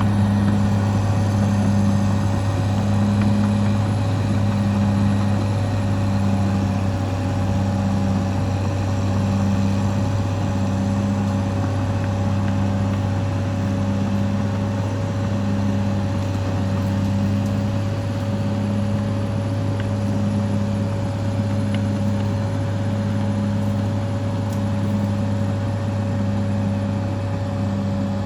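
Caterpillar D6R XL bulldozer's diesel engine running steadily, with a low hum that pulses on and off about once a second.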